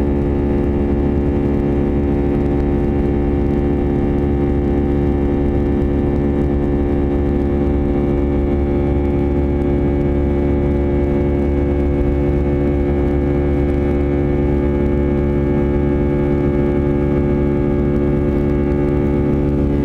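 Airbus A319's CFM56 turbofan engines at high climb thrust, heard from inside the cabin: a loud, steady drone made of many pure tones over a low rumble. This is the fan 'buzzsaw' noise of the engines on takeoff power. The tones shift slightly near the end.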